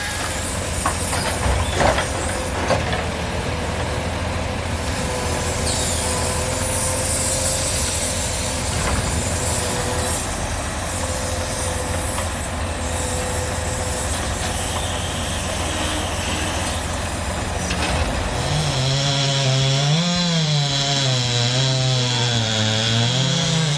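A powered saw cutting through wood with its motor running steadily. About three-quarters of the way through, it gives way to an engine whose pitch rises and falls unevenly.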